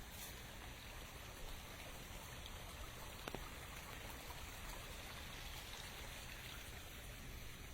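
Light rain falling steadily as a soft even hiss, with a few separate drops clicking sharply, one about three seconds in.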